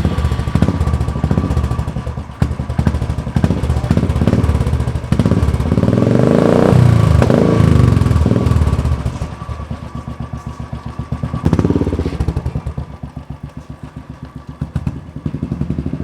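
Royal Enfield Bullet single-cylinder motorcycle engine running just after start-up, its exhaust pulsing quickly. About five seconds in it is revved up, rising in pitch and loudness and falling back after a few seconds. There is another short blip of the throttle near twelve seconds.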